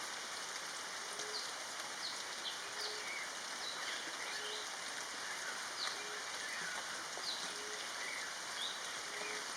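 Forest birds calling: a short low note repeated about every one and a half seconds, with scattered short high chirps, over a steady hiss and a thin steady whine.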